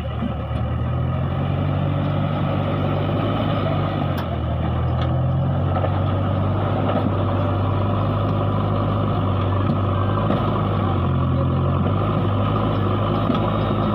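Mahindra tractor's diesel engine running steadily with a low drone, its pitch shifting slightly now and then.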